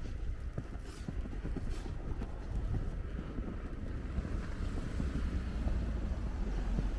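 Wind buffeting the microphone, a steady low rumble with irregular crackles.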